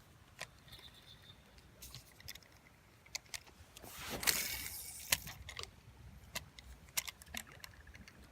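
Fishing tackle being handled: scattered small clicks and rattles, with a short rush of noise about four seconds in.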